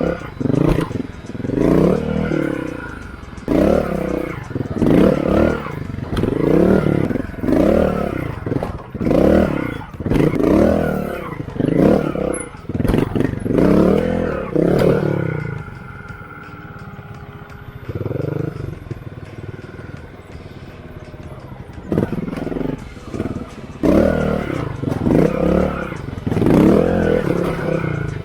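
Honda Montesa 260RT trials motorcycle's four-stroke single engine revved in repeated short throttle blips, about one a second, as the bike is ridden over obstacles. About halfway through it settles to a low steady run with one blip, then the throttle blips resume near the end.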